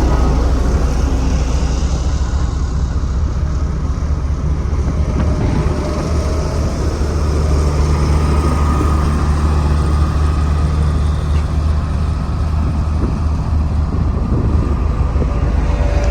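Sakai vibratory road roller's diesel engine running steadily with a loud, deep hum.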